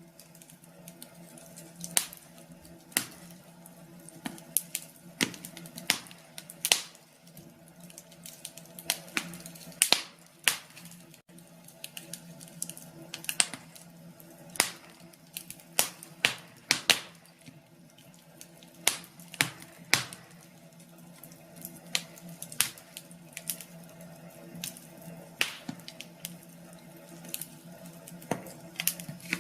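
Wood fire crackling, with sharp irregular pops and snaps over a low steady hum.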